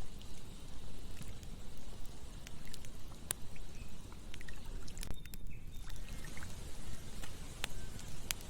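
Campfire crackling, with sharp irregular pops, over the steady rush of flowing river water. A few short bird chirps come in the second half.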